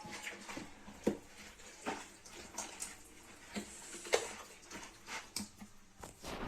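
Hands working wet chermoula marinade into raw chicken: soft squishing with a short wet slap or knock every second or so.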